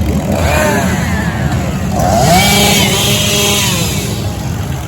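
Vehicle engine revving over a steady idle: a short rev up and down, then about two seconds in a rev that climbs and is held high for a second or so before dropping back.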